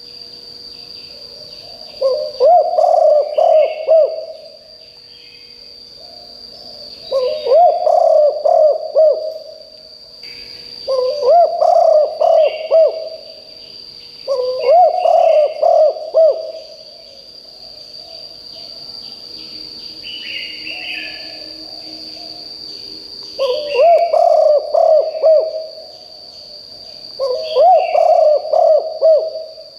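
Spotted dove cooing: six phrases of several low, throaty notes, each about two seconds long, repeated every few seconds. A steady high insect whine and faint chirps of other birds run underneath.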